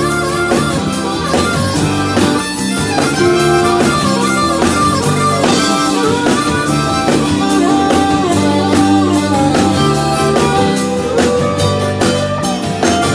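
Country band playing an instrumental break: a guitar solo over bass and a drum kit keeping a steady beat.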